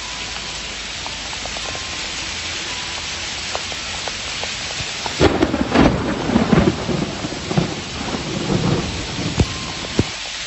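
Heavy storm downpour hissing steadily. About halfway through, irregular loud low rumbles and knocks join it.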